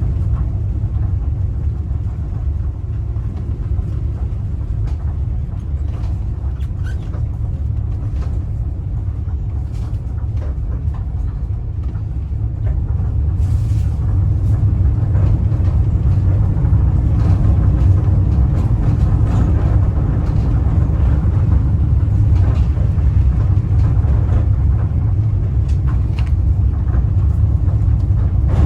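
Steady low rumble of a Ram ProMaster van driving, heard from inside the cabin, getting a little louder about halfway through.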